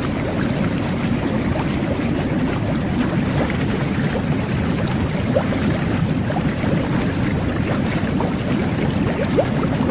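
Jet bath (whirlpool tub) water jets churning the bathwater: a steady, deep bubbling with many small bubble pops above it.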